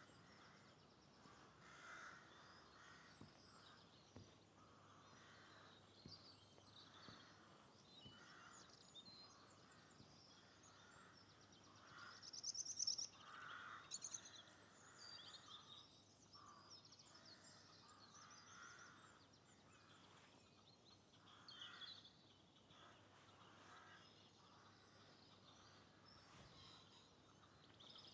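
Faint birdsong, several birds calling and singing at once, with one louder, quick trilling phrase about twelve seconds in.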